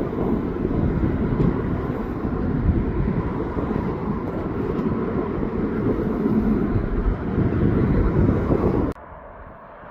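Wind buffeting the microphone: a loud, dense low rumble that cuts off abruptly near the end.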